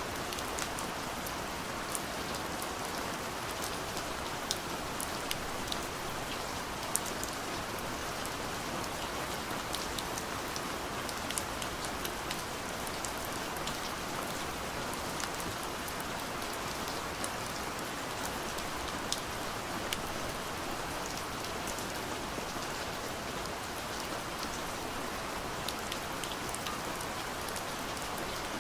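Gentle rain falling steadily on a window: an even patter with scattered sharper drop ticks.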